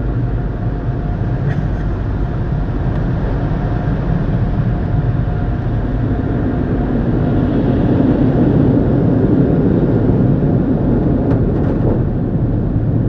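Steady low rumble of a car heard from inside the cabin, engine and road noise, with a faint steady whine.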